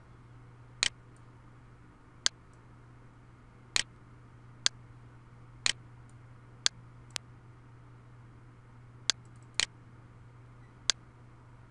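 Computer mouse clicking about ten times at irregular intervals, sometimes in quick pairs, over a low steady hum.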